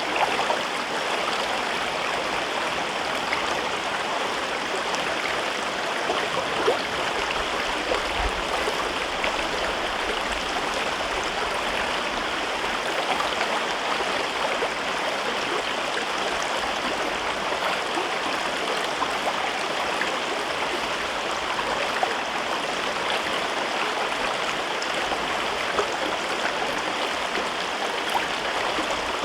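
River water flowing and babbling over rocks in a gorge, a steady rushing with small splashes and gurgles.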